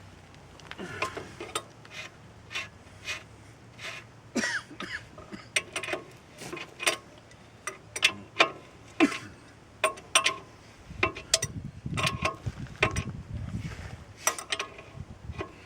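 Irregular metal clinks, clanks and clicks of tools and steel parts being worked on while fitting an excavator thumb attachment, some strikes ringing briefly. About eleven seconds in comes a couple of seconds of heavier, lower knocking and rumble.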